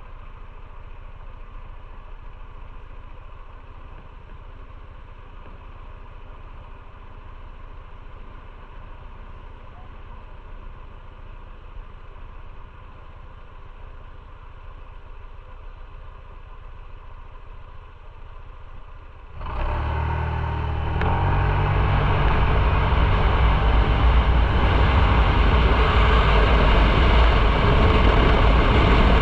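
Motorcycle engine running steadily while riding, with road and wind noise. It is muffled and fairly quiet at first, then about two-thirds of the way through it jumps abruptly to a much louder, fuller engine and rushing sound.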